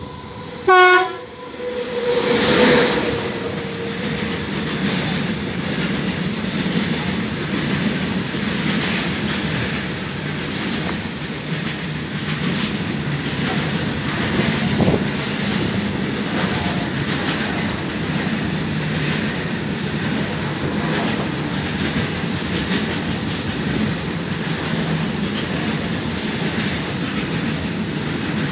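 Indian Railways WAG-9 electric locomotive sounds a short horn blast about a second in, then passes at speed. It is followed by a long freight train of covered goods wagons rolling by with steady wheel rumble and clickety-clack over the rail joints.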